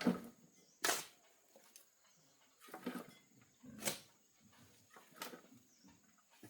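Five separate sharp knocks or thuds, irregularly spaced about one to two seconds apart, the first two the loudest.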